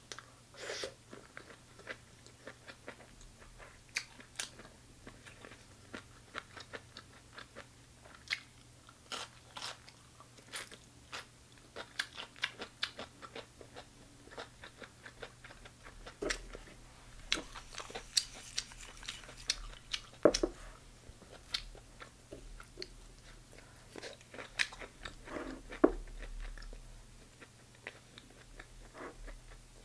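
Close-miked chewing of firm, crunchy chicken gizzards: irregular crunches and wet mouth clicks, with two louder crunches about 20 and 26 seconds in, over a faint steady hum.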